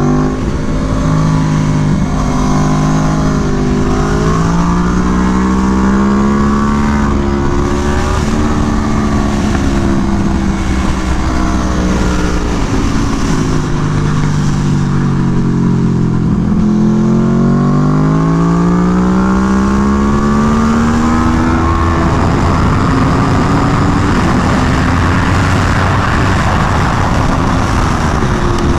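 Aprilia Tuono V4 1100 V4 engine, fitted with an SC Project CR-T exhaust, run hard on a racetrack: its pitch climbs and drops again and again as the bike accelerates out of corners and slows into them. Heavy wind noise runs underneath and takes over near the end.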